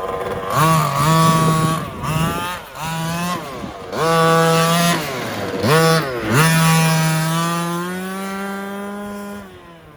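The 30cc two-stroke gas engine of a Redcat Rampage XR rally RC car, breathing through a restrictive pipe, revs at part throttle in several bursts, its pitch rising and falling with each one. About six seconds in it holds a steady note for a few seconds, then fades away. The engine is not yet warmed up.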